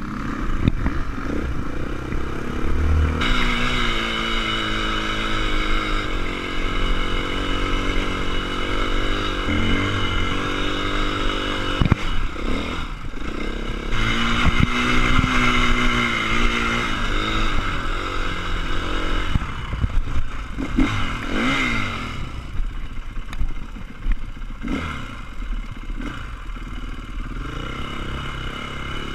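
Off-road motorcycle engine running and revving up and down repeatedly as the bike is ridden, with clattering knocks. A steady high whine sits over much of it and drops away about three-quarters of the way through.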